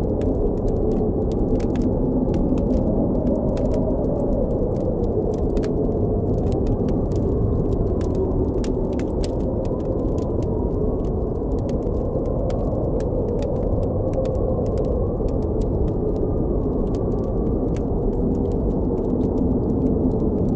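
Blizzard wind blowing steadily with a deep rush and a faint wavering howl, over the frequent sharp crackles and pops of a campfire.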